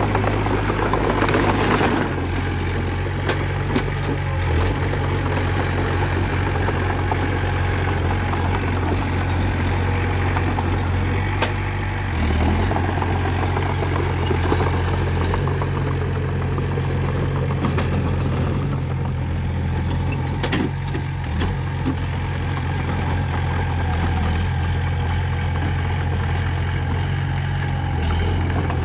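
Diesel engine of heavy earthmoving equipment running steadily, with a rattle and a few metallic clanks.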